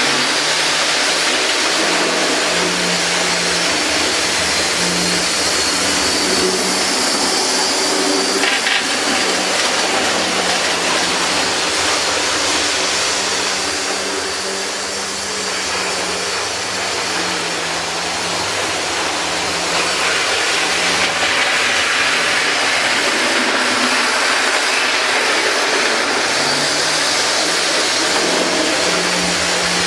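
Diesel locomotive engine running steadily, a low engine note that wavers in pitch under a continuous hiss.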